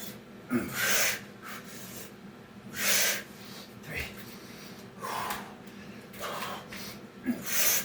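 A person breathing hard and blowing out sharp, forceful breaths about every one to two seconds, with a few soft knocks between them, as he works through Navy SEAL burpee reps.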